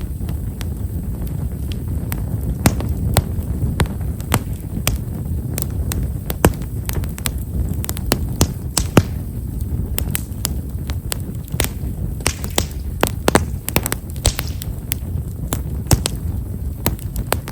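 Himeshara (Stewartia monadelpha) firewood burning in a campfire, with many small, finely spaced crackles and pops over the low rush of the flames.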